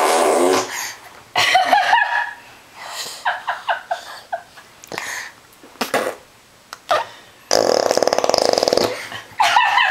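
A baby blowing raspberries against a person's arm: wet, buzzing, fart-like sounds, a short one at the start and a longer one of about a second and a half near the end. Laughter and squeals come in between.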